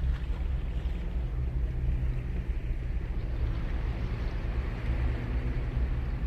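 Ocean surf washing onto a sandy beach, an even hiss that swells a little near the start and again about four to five seconds in, over a steady low rumble.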